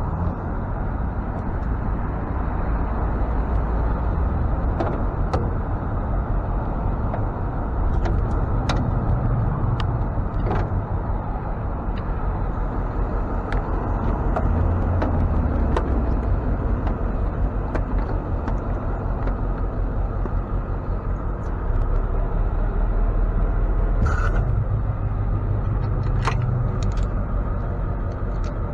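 Ford F-550 tow truck on the road: a steady low engine and road rumble that swells in level several times, as if the truck is accelerating, with a few light clicks and rattles.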